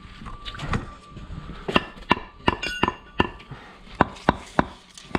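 Bricklaying tools knocking on concrete blocks: a run of about eight sharp metallic taps, each with a short ring, starting a little under two seconds in.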